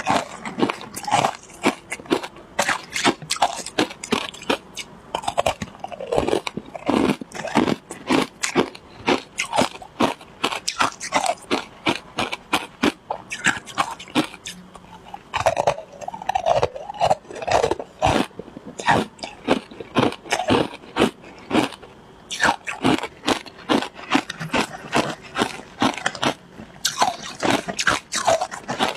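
Ice being bitten and chewed, a steady run of sharp crunches several times a second, with short pauses between mouthfuls.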